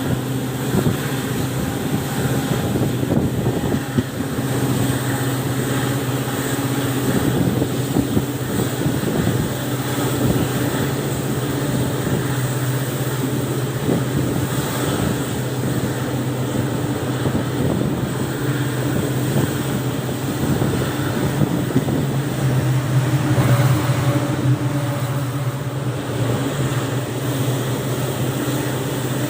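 WDP4B diesel locomotive's 16-cylinder two-stroke EMD 710G3B engine running with a steady low drone that holds the same pitch throughout.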